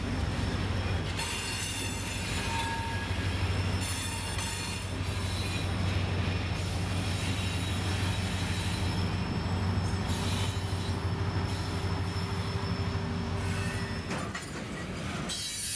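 Kiamichi Railroad diesel locomotives pulling a freight train slowly, a steady engine drone with thin high-pitched wheel squeal over it. Near the end it changes to freight cars rolling past.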